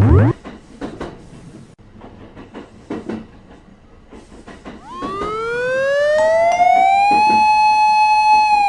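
Animated train sound effects: a short loud burst, then soft clacks of wheels on the rails about once a second. From about five seconds in, a siren-like tone swells upward in pitch and then holds.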